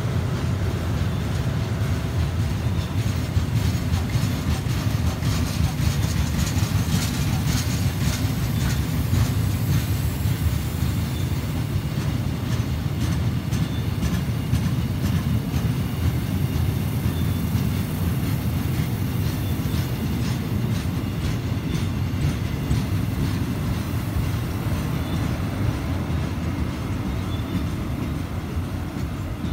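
Freight train wagons rolling past in a steady low rumble, with wheels clicking over the rail joints, most plainly about six to twelve seconds in.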